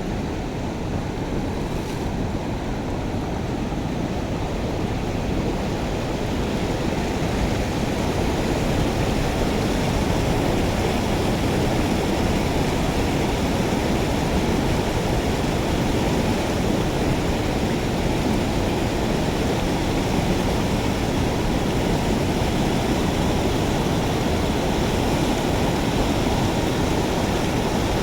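Steady rush of water draining through a culvert, growing a little louder over the first several seconds and then holding even.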